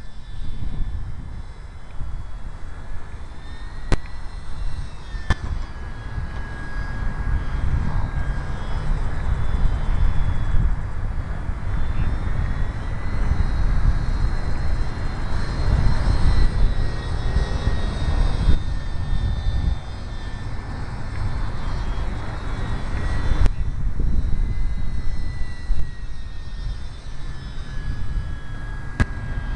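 Strong wind buffeting the microphone, with the thin high whine of an ultra-micro RC airplane's electric motor drifting up and down in pitch as it flies.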